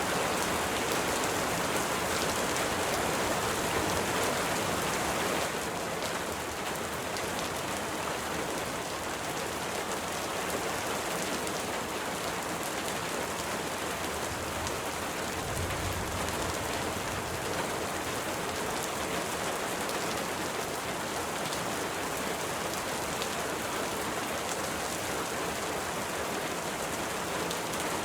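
Steady rainfall: an even hiss of many drops on a surface, easing slightly about five seconds in.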